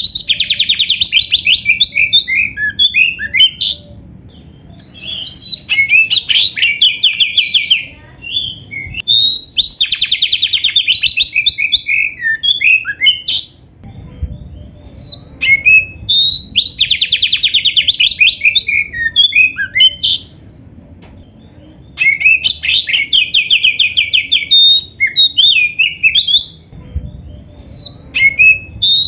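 Oriental magpie-robin (kacer) singing loudly in repeated phrases every few seconds, each opening with a rapid buzzing rattle and running on into varied quick whistled notes and chips.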